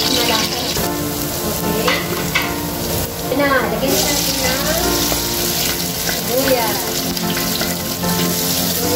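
Food sizzling as it fries in hot oil in a pan, being stirred.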